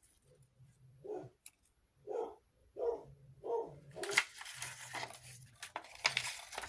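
A dog barking repeatedly in short yaps, roughly one every half second to a second. From about four seconds in, a dense rustle of paper being handled overlaps the barks for a couple of seconds.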